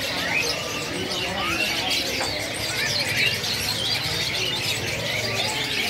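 Many caged birds calling at once: a dense chorus of short, high chirps and twitters, with doves cooing among them.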